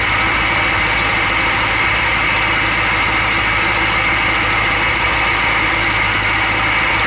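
1978 Ford LTD Landau's V8 engine idling steadily under the hood, with an even rushing hiss over the engine note.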